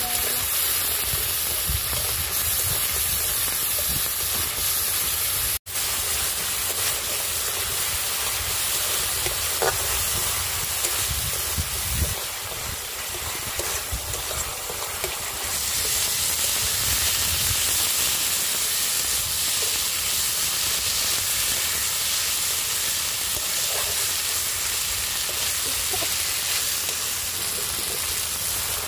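Masala paste frying in hot oil in a kadai, sizzling steadily while it is stirred and pushed around with a flat metal spatula.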